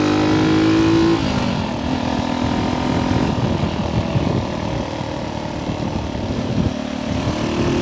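1964 Honda C200's small single-cylinder engine running hard on the road, its note dropping about a second in as the throttle closes. Wind buffeting on the microphone takes over for several seconds, and near the end the engine note picks up and rises again as it pulls.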